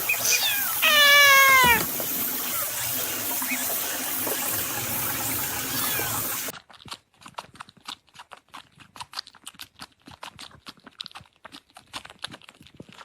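A domestic cat meows once, loud and drawn out, about a second in, over a steady hiss. After about six and a half seconds the hiss stops, leaving a run of quiet, irregular clicks and taps.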